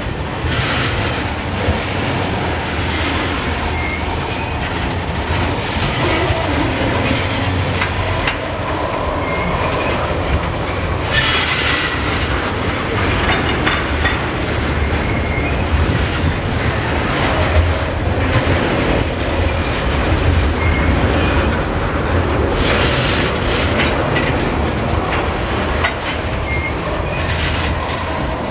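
Freight train tank cars rolling past, a steady loud rumble with wheel clatter over the rails. Now and then there is a faint high wheel squeal.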